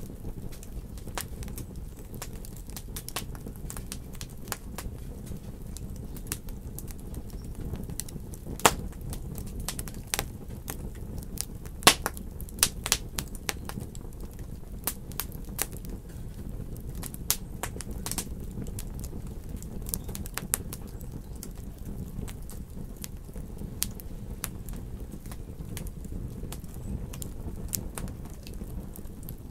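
Wood fire in a fireplace crackling, with frequent irregular sharp pops over a steady low rumble. The loudest pops come about nine and twelve seconds in.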